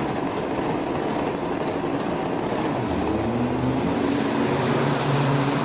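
Semi trucks' diesel engines running loud at a drag strip, with a deeper engine note coming in about three seconds in and a faint high whistle slowly climbing throughout.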